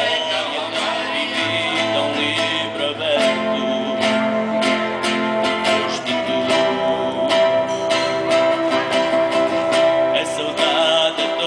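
Music with a guitar being plucked and strummed over a steady held tone.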